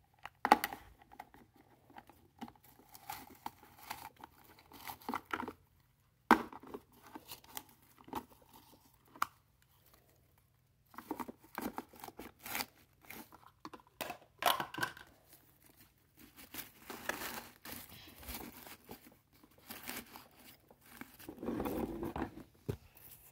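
Plastic toy garbage trucks and bins being handled: irregular clicks, knocks and rattles with stretches of rustling and crinkling, loudest in a longer scraping rustle near the end.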